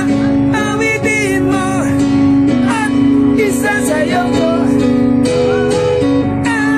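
Live music: a melody that bends and glides, most likely sung, over sustained electronic keyboard chords.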